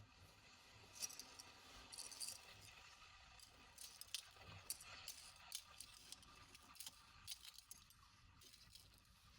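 Faint, scattered light clicks and clinks of small hard objects being handled and sifted through by hand.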